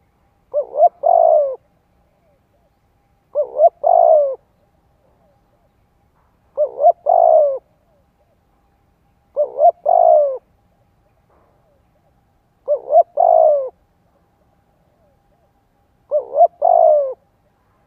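Spotted dove cooing: six phrases about three seconds apart, each two short notes followed by a longer falling note.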